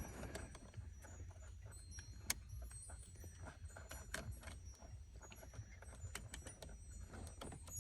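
Small clicks and rattles of plastic wiring plugs being handled and pushed into a bracket, with one sharper click a little over two seconds in.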